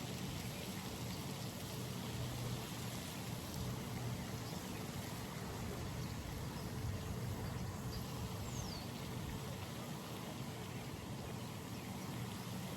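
Steady outdoor pond ambience: an even hiss with a low rumble underneath, and a single short, falling bird call about two-thirds of the way through.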